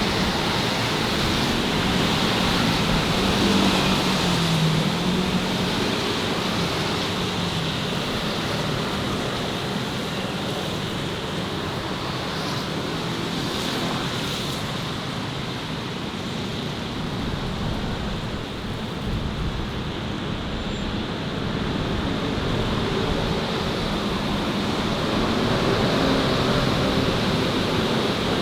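Steady road traffic noise: a continuous rush of passing vehicles with engine hum that rises and eases as they go by.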